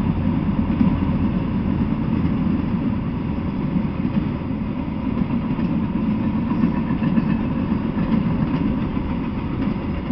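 Freight train of enclosed autorack cars rolling past, with the steady low rumble of wheels on the rails.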